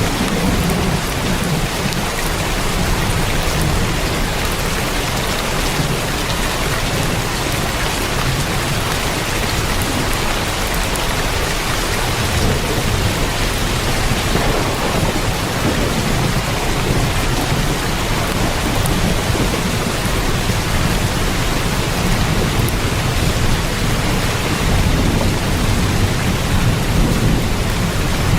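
Heavy rain falling steadily on a tin roof, a dense patter with fine drop ticks, over a low rolling rumble of thunder that swells and fades.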